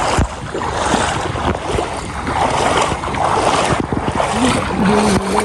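Floodwater rushing steadily, with wind gusting on the microphone. A wavering pitched tone comes in near the end.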